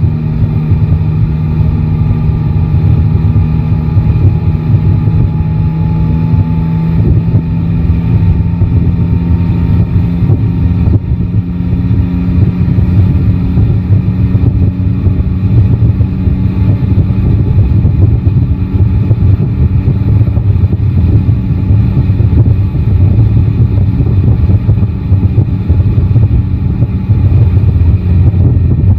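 Yamaha Tracer 9 GT motorcycle's three-cylinder engine running at a steady, even engine speed, with a low rumble and no sharp revving.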